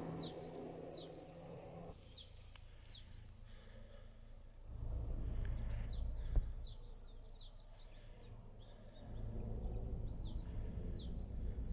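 A small bird chirping repeatedly: runs of short, high notes, each a quick falling stroke followed by a shorter note. Underneath is a low rumble of wind on the microphone that comes and goes, with a single sharp tap about six seconds in.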